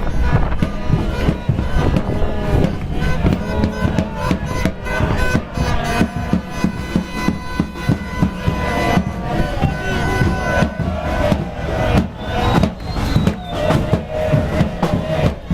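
A crowd of football fans celebrating in the street: chanting and singing together over steady drumbeats, with held horn tones and sharp bangs mixed in.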